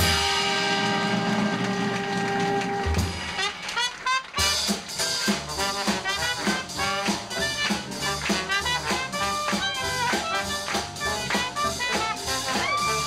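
Live small jazz band, clarinet with brass, piano, bass and drums, playing. A long held chord ends about four seconds in, then brisk, swinging music follows, with quick clarinet and brass runs over a steady drum beat.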